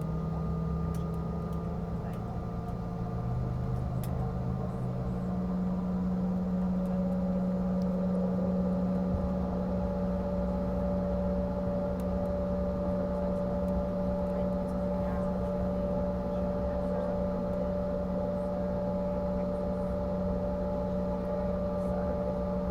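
Steady engine drone heard inside the cabin of a CRJ-550 regional jet, from its two rear-mounted GE CF34 turbofans, with several humming tones. About five seconds in the low hum steps up slightly in pitch and a higher tone joins it, as the engines' speed rises.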